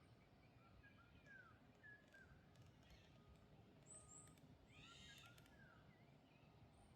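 Faint wild birdsong: several birds giving short chirps and whistled slurs, with a harsher, crow-like call about five seconds in, over a low steady rumble.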